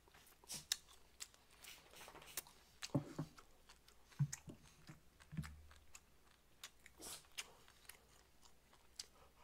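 Close-miked chewing and gnawing of beef short rib meat pulled off the bone, with irregular small wet clicks of the mouth and a few soft knocks around the middle.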